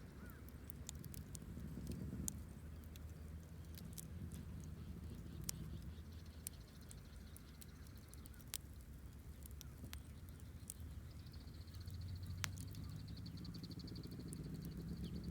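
Wood campfire burning, with scattered sharp crackles and pops over a low rumble.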